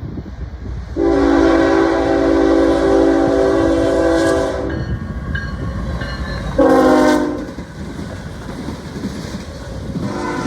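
Norfolk Southern ES44AC diesel locomotive's multi-chime air horn sounding a long blast of nearly four seconds, then a short blast, with another blast starting near the end. Underneath is the steady low rumble and clatter of the train rolling by.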